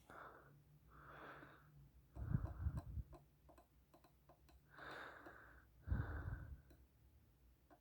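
A person breathing close to the microphone, slow breaths in and out, two of the out-breaths puffing low and louder on the mic, with faint small ticks between them.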